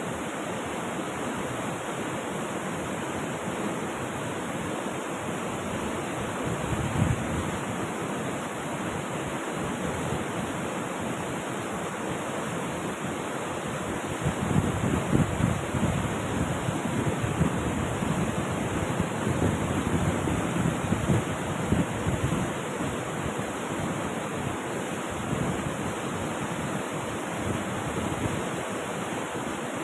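Rushing river water, a steady, full noise of flowing and falling water. In the middle it swells into a louder, choppy low rumble for several seconds.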